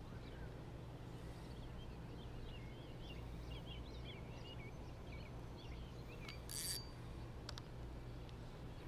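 Faint birdsong: a quick run of short chirps over a low steady outdoor hum, then a brief hiss and a few light clicks near the end.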